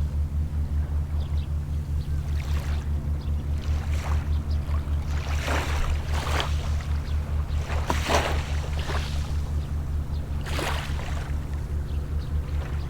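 A boat engine runs with a steady low throb throughout. Small waves wash in several times over it, the biggest about eight seconds in.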